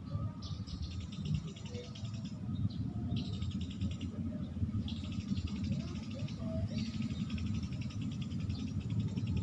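Sparrows (Eurasian tree sparrows) chirping in four fast chattering runs with short gaps between them, over a low steady rumble.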